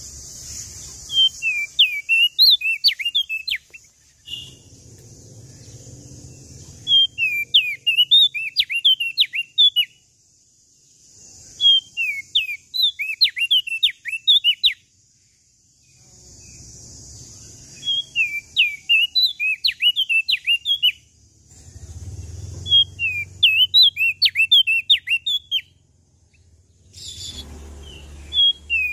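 Opior jambul, the crested bird also called prenjak daun, singing in repeated phrases. Each phrase is about two to three seconds of quick, sharp notes that sweep up and down, with short pauses between phrases.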